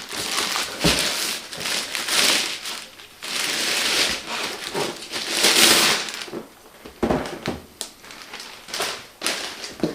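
Packaging wrap being handled and pulled, crinkling and rustling in long stretches, loudest around the middle, with a few short knocks toward the end.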